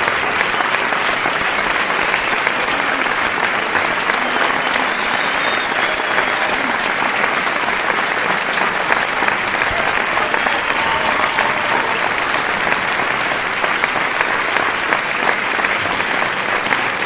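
A large crowd applauding steadily, many hands clapping at once in a dense, even wash of claps.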